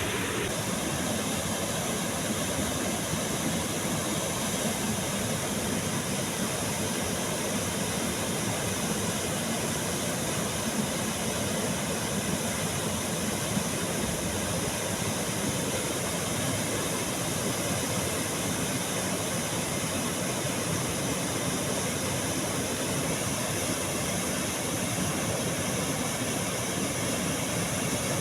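Nyakwana waterfall: a steady, even rush of falling water.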